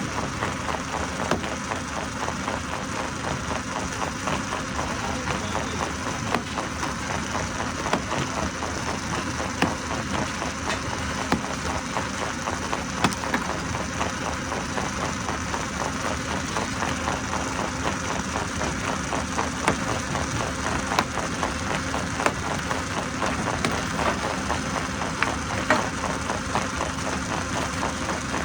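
Stone crusher running steadily, with frequent irregular sharp knocks and cracks over its continuous machine noise.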